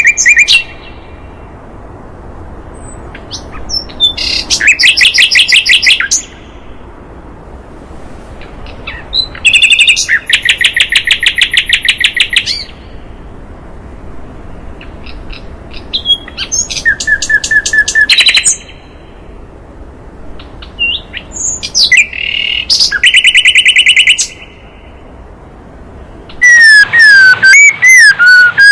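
Recorded birdsong of a sikatan londo and a white-rumped shama (murai batu): five separate bursts of rapid, evenly repeated high notes, each one to three seconds long, with low hiss between them, then loud sliding whistled phrases near the end.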